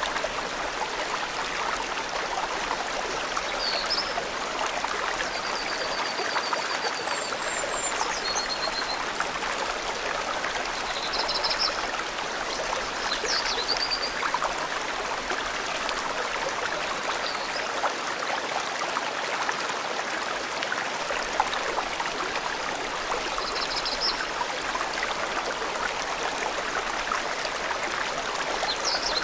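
A forest stream flowing with a steady rush of water. Small birds call now and then over it: short high chirps scattered through, and a brief trill of quick repeated notes.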